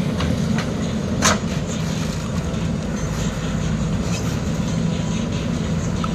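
Heavy diesel engine running steadily, with a single sharp metallic knock about a second in and light clicks and rattles over the running.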